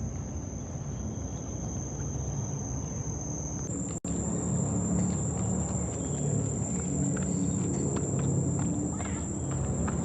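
Insects droning in one steady, high-pitched tone that cuts out briefly about four seconds in and comes back higher. Footsteps on a trail tick in from about halfway.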